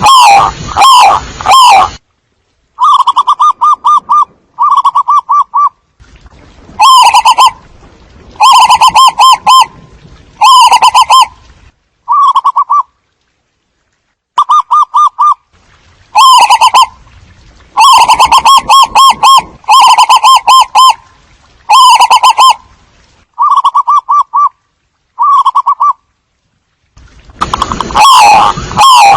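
Zebra doves cooing: loud phrases of fast, staccato notes, each about a second long, repeated with short pauses, with a busier run of falling notes at the start and again near the end. It is a lure call recording for drawing a flock of doves.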